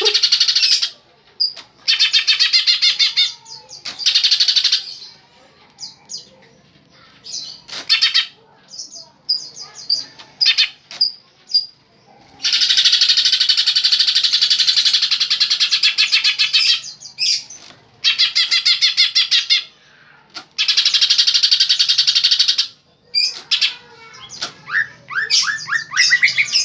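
A pet songbird singing in loud phrases of rapid, repeated trilling notes, each phrase lasting one to four seconds with short pauses between; the longest runs about four seconds midway.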